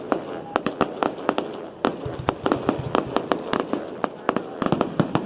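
Fireworks display: shells bursting in an irregular run of sharp bangs and pops, crowding into a dense volley near the end.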